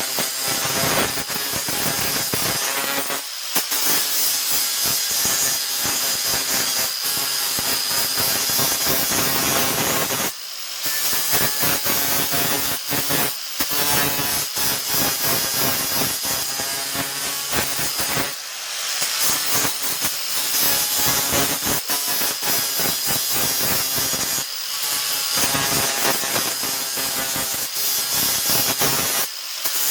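An abrasive power tool running with a steady high whine as it works against the rusty steel of an axe head, with short breaks every several seconds.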